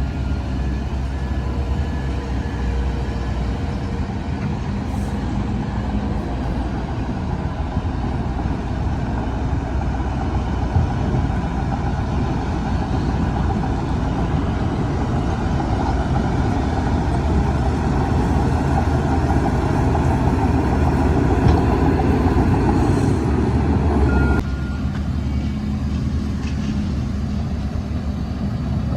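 Diesel engines of heavy earthmoving machinery, bulldozers and dump trucks, running hard and steadily, building a little louder before dropping suddenly about 24 seconds in. A backup alarm beeps faintly near the start.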